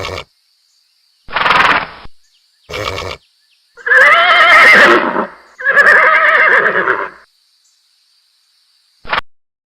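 Horse neighing: a series of whinnies with a quavering, wavering pitch, the two longest and loudest about four and six seconds in, broken by sudden silent gaps and ending with a short clipped call near the end.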